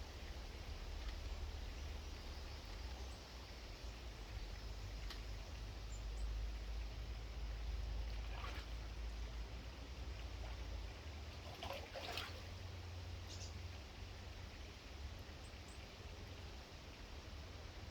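Outdoor garden background noise with a low steady rumble, broken by a few short sharp rustles or clicks from birds at a seed and fat-ball feeder, the loudest about twelve seconds in, and a few faint brief bird chirps.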